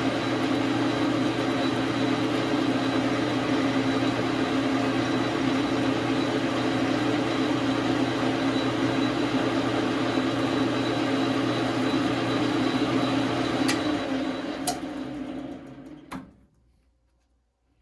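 Dar Sin 12 x 37 manual lathe running with a steady hum and whine, then spinning down about fourteen seconds in. A few sharp clicks come as it stops, the loudest about sixteen seconds in.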